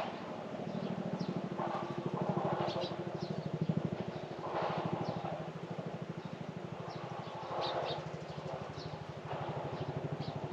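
A small engine running steadily, a low, rapidly pulsing hum, with birds giving short high chirps over it and a few brief bursts of noise.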